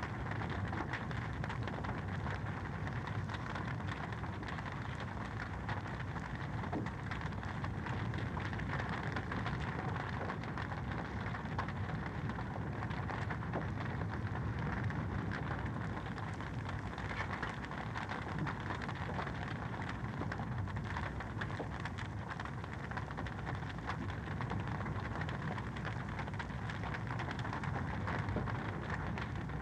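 Wood fire in a fireplace crackling: a dense, steady stream of small pops and snaps over a low rumble of the burning.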